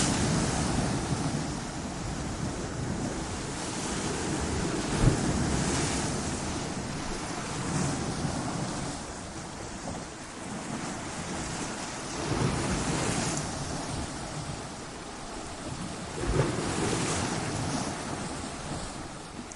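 Ocean waves breaking against coastal rocks: a constant wash of surf that swells into a louder crash every few seconds and falls away again.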